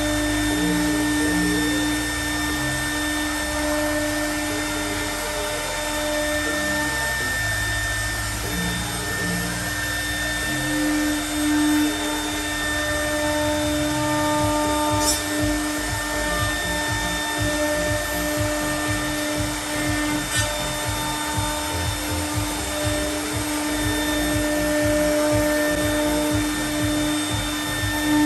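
CNC router milling aluminium composite panel: the spindle runs with a steady, constant-pitched hum over the hiss of the cut and dust extraction, and a low rumble shifts as the gantry moves.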